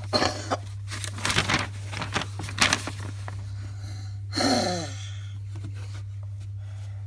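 Packaging being handled, with crinkling and tearing in the first three seconds. About four and a half seconds in there is a short falling voice sound. A steady low hum runs underneath.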